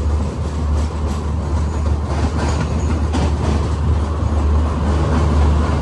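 Samata Superfast Express passenger train running along the track: a steady low rumble with a few irregular clicks of the wheels over rail joints.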